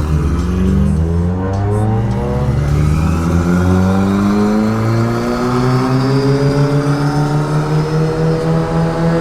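Turbocharged car engine under full-throttle acceleration in a race, its pitch climbing, dropping briefly at a gear change about two and a half seconds in, then climbing steadily again through the next gear.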